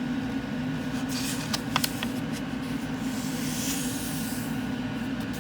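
A sheet of paper being folded and creased by hand: a few sharp crinkles about a second and a half in and a soft sliding rustle near the middle, over a steady low hum.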